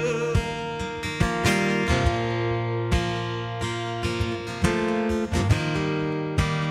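Instrumental worship-band music: acoustic guitar strumming chords over a steady low bass note, with no singing.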